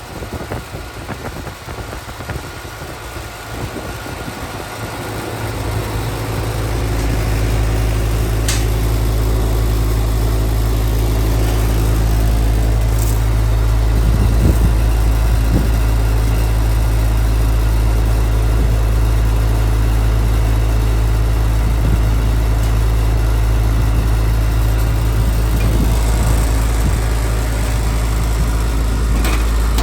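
Air-conditioning equipment motor starting up, building over a few seconds into a steady low hum that keeps running.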